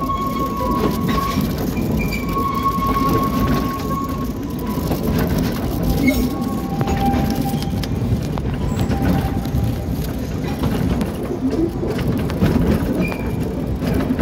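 Narrow-gauge forest railway train running, with a steady rumble of wheels on the rails. Short, high squeals come and go as the wheels take the curves.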